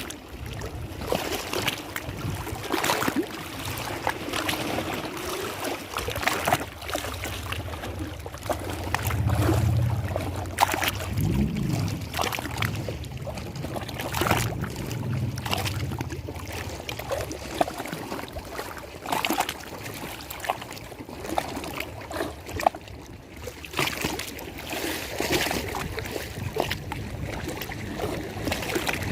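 Lake water lapping and splashing in irregular strokes, some louder than others. A low hum joins for several seconds in the middle.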